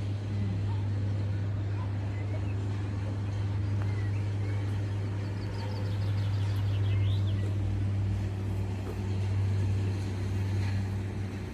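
Steady low outdoor hum, with a few faint high bird chirps around the middle.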